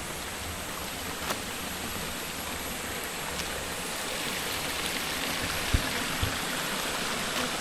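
Running water of a jungle stream: a steady rushing wash that grows slightly louder over the few seconds.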